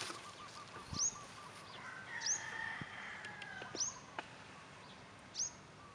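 Birds calling. One bird repeats a sharp, high call that sweeps downward, four times about a second and a half apart, over a quick run of lower repeated notes at the start and fainter calls from other birds.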